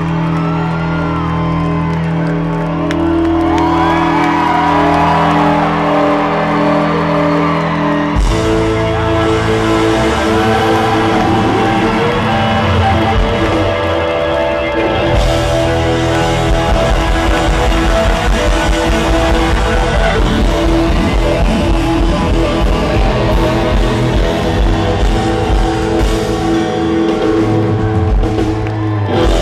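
Live amplified rock band playing, with guitar and sung lines over held chords. The full band with drums comes in about eight seconds in, and a steady beat is established from the middle onward.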